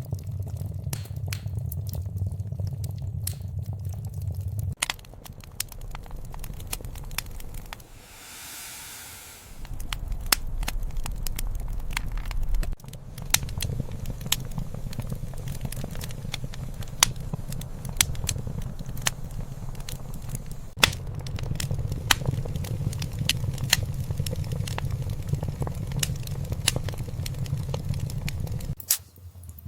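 Wood fire burning in a fireplace: irregular sharp crackles and pops over a steady low rumble of the flames, with a brief quieter hissing stretch about eight seconds in.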